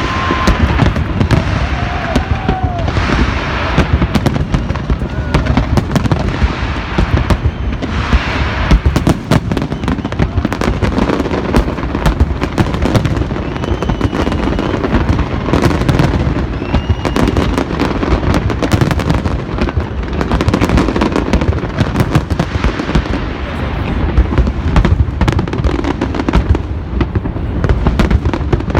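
Big fireworks display: a dense, continuous barrage of bangs, booms and crackling shells with no let-up.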